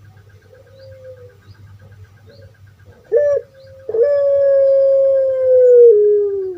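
Puter pelung (Barbary dove) calling: a short note about three seconds in, then one long drawn-out coo that holds and slowly falls in pitch, stepping lower near the end. A faint rapid ticking runs in the background.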